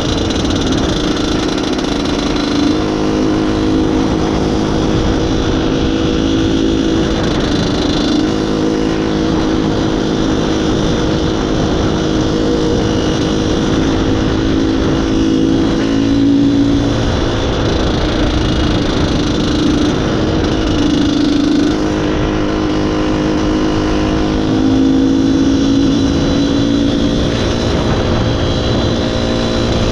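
IZh Planeta Sport motorcycle's single-cylinder two-stroke engine running under way, loud and steady, its pitch shifting a little up and down with the throttle.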